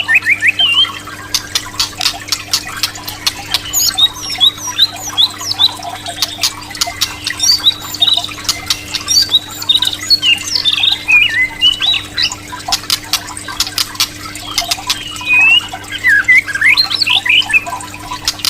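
White-rumped shama (murai batu) calling: short whistled notes that rise and fall, mixed with a dense run of sharp clicks. A steady low hum lies under it.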